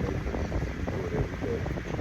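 Steady low rumble of a running fan.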